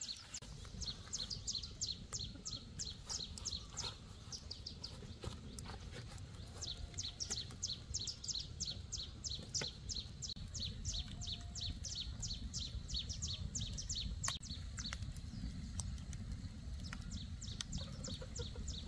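Small birds chirping rapidly, about four or five short high chirps a second with a few brief pauses, over a steady low rumble.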